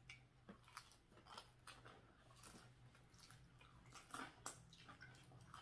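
Faint chewing and biting: soft, irregular mouth clicks and smacks of people eating, over a faint low hum.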